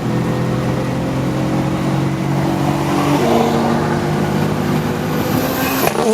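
Car engine running at steady, held revs, its pitch shifting to a new level about three seconds in, with an abrupt change just before the end.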